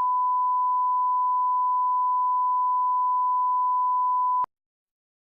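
Steady 1 kHz reference test tone, a single pure beep at one pitch, that cuts off abruptly about four and a half seconds in.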